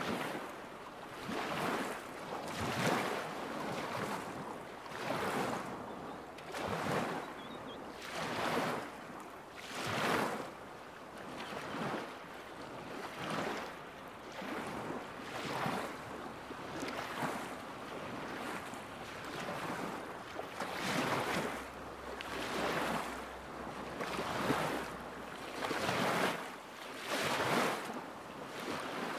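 Small waves lapping against a lakeshore, a soft splash every one and a half to two seconds.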